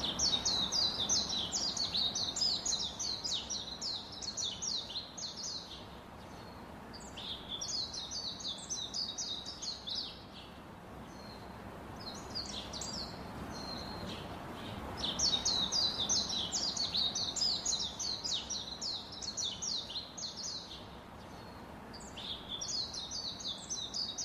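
Small birds chirping: quick runs of high, falling chirps in bouts a few seconds long, with short pauses between them, over a steady background hiss.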